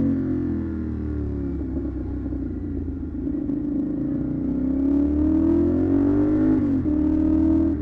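CFMoto 450SR parallel-twin engine through an SC Project aftermarket exhaust, under way: the revs fall over the first few seconds, then climb steadily, drop briefly near seven seconds as at a gear change, and hold.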